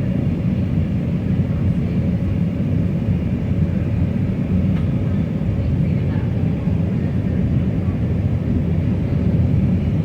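Steady cabin noise of an Airbus A319 in flight: the even roar of engines and airflow heard from inside the passenger cabin, strongest in the low end and unchanging throughout.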